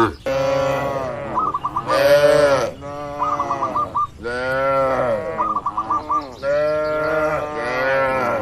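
Cattle mooing: three long, drawn-out moos one after another. A short, high warbling chirp repeats between them about every two seconds.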